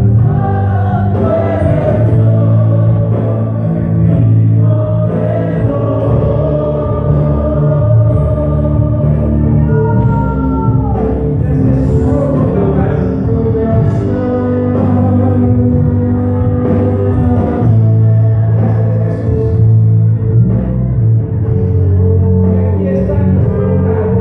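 Live worship music: a band with bass playing under singing voices in a slow Christian praise song.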